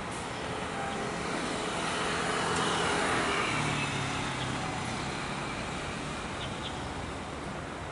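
Alstom Citadis 305 tram arriving at a station: its running noise swells and then eases off as it slows, with a low hum coming in about halfway through.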